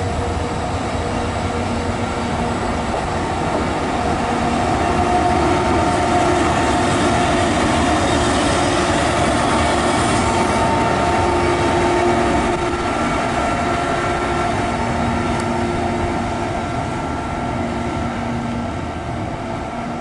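Electric train running past along the track, a steady rumble with several steady whining tones over it, loudest about midway and easing off toward the end.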